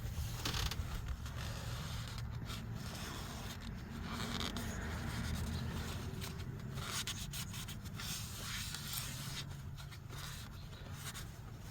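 Irregular rubbing and scraping of spilled engine flush being wiped up from around the oil filler.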